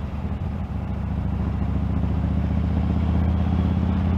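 Motorcycle engine running steadily, heard through an action camera's external microphone, growing a little louder about a second and a half in.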